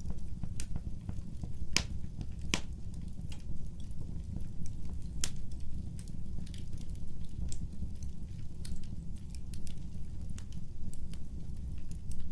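Wood fire burning with a steady low rumble, crackling and popping at irregular moments; the sharpest pops come about two seconds in and again about five seconds in.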